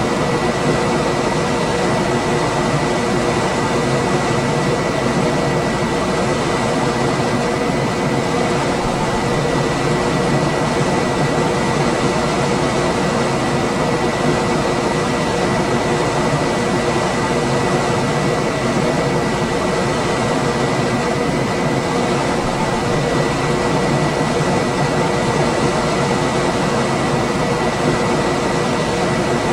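Room air conditioner running steadily: an even rush of blown air with a low hum and a thin, steady high tone, unchanging throughout.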